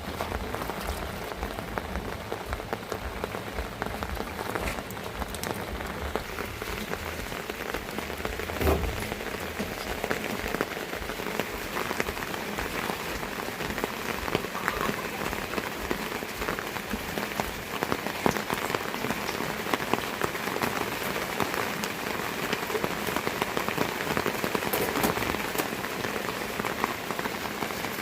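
Steady rain falling, with the sharp ticks of many single drops striking close by. A dull knock about nine seconds in.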